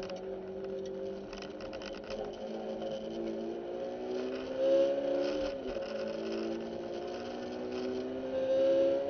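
2008 Honda S2000's inline-four engine under hard acceleration, heard from inside the cabin. The pitch climbs, falls at an upshift about five and a half seconds in, then climbs again.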